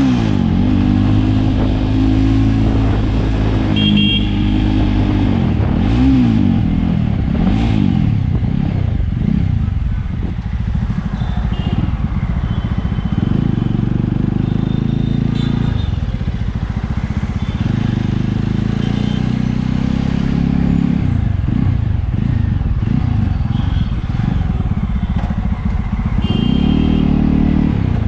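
Jawa Classic 300's single-cylinder engine and exhaust under way, its pitch rising and falling again and again as the rider accelerates, shifts gears and eases off. Short high-pitched beeps are heard now and then.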